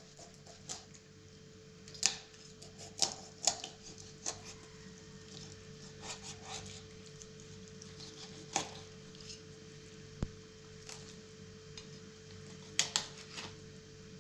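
Cooking work with utensils and dishes: scattered sharp clicks and knocks at irregular intervals over a faint steady hum.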